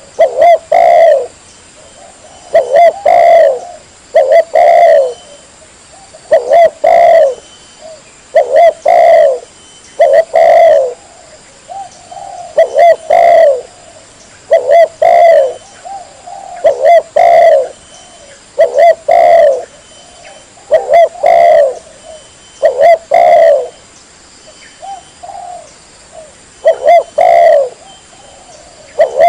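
Spotted dove (tekukur) cooing loudly, a short phrase of several coo notes repeated about every two seconds, with a longer pause near the end.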